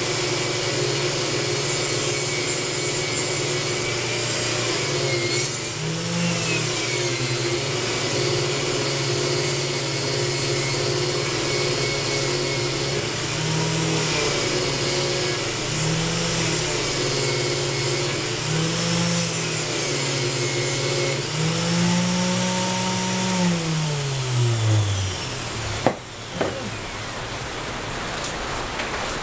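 Cheap no-name angle grinder, clamped in a vice, running a wire wheel against rusty metal. Its motor pitch rises briefly several times as the load comes off, then the grinder is switched off and winds down, with a sharp click just after it stops.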